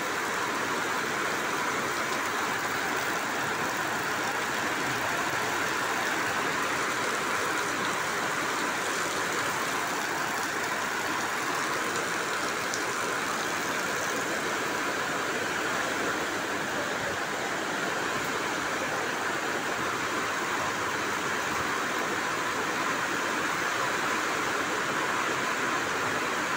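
Heavy downpour: a steady, dense hiss of rain falling and splashing on the station platform and pouring off the platform roof.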